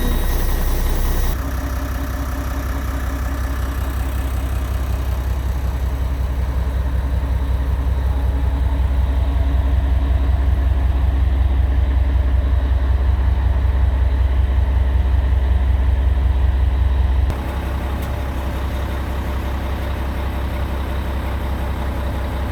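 Cummins L10 inline-six diesel engine of a Peterbilt 320 garbage truck running steadily at idle, with an even low pulsing. The sound changes abruptly twice, about a second in and again about three-quarters of the way through.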